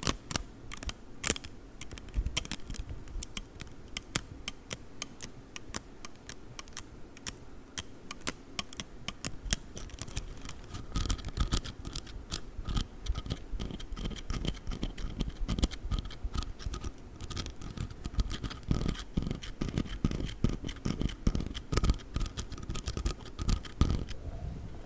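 Fast, irregular tapping, clicking and scratching on a folding ruler (inch rule).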